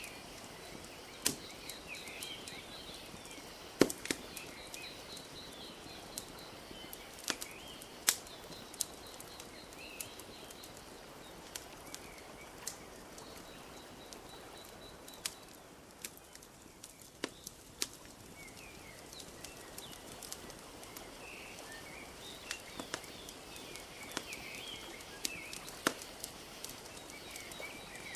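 Wood fire crackling with sharp, irregular pops over a steady wash of lake water lapping at the shore. Small birds chirp and trill now and then.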